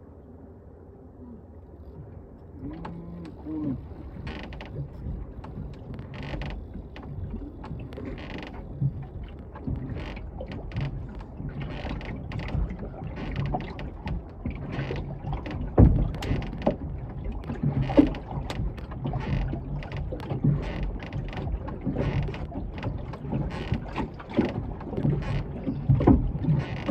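Irregular knocks, clicks and creaks from a small fishing boat and the gear in it, growing busier after the first few seconds.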